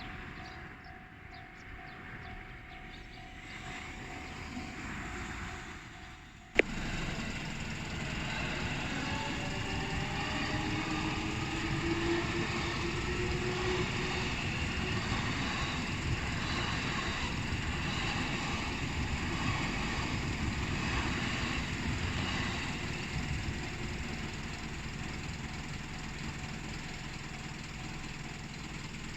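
Level-crossing warning signal ringing with a steady tone. After a sharp click about six and a half seconds in, an Ome Line electric train passes over the crossing: dense wheel-on-rail rumble with a motor whine, easing off near the end.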